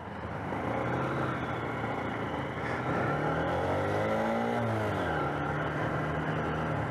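Small motorcycle engine running under way, with road and wind noise. About four seconds in its pitch rises and then falls back as it revs and eases off, then it settles to a steady drone.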